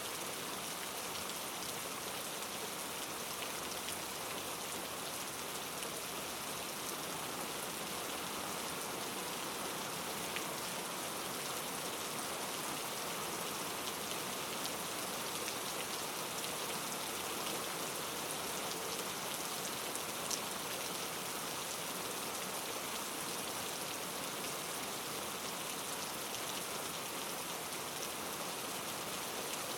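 Steady rain falling in a constant, even hiss, with a few distinct drop ticks standing out, the clearest about twenty seconds in.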